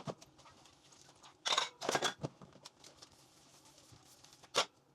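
Short clatters and scrapes of household items being handled: a cluster of several about a second and a half in, and one more near the end.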